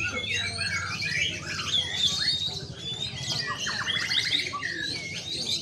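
Several caged songbirds singing over one another, a dense jumble of chirps, whistles and trills, with a fast buzzy trill about four seconds in. A steady low hum runs underneath.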